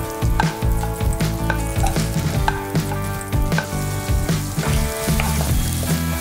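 Butter sizzling in a nonstick pan as sliced green onions fry in it and are stirred with a wooden spatula, under background music with a bass line.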